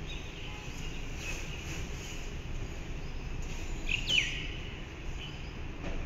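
Small songbirds chirping with short, faint calls. About four seconds in comes one louder call that slides down in pitch. A steady low rumble of background noise runs underneath.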